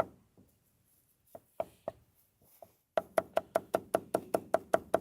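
Food being chopped on a cutting board: a few separate knocks, then about three seconds in a fast, even run of chops at about five a second.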